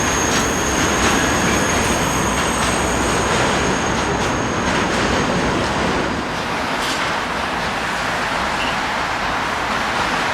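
A train rolling past on the rails, with a thin, high wheel squeal over the first few seconds. The sound eases a little about six seconds in.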